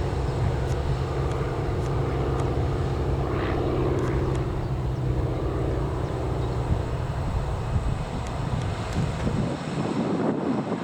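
Airliner engines running with a steady low drone, which fades away near the end.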